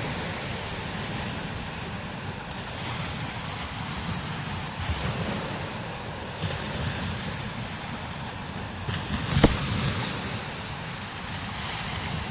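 Strong desert wind blowing in gusts across the microphone, rising and easing every second or two. There is a sharp thump about nine and a half seconds in.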